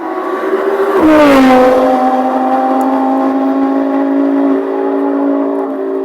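A car engine held high in the revs, loud: its pitch drops sharply about a second in, then holds steady.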